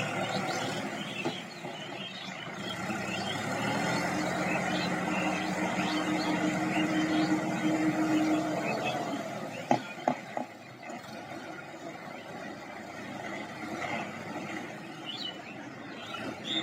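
Sonalika tractor's diesel engine running steadily while puddling a flooded paddy field into mud. Its note grows louder and stronger for several seconds, then eases off. About ten seconds in there are three sharp knocks.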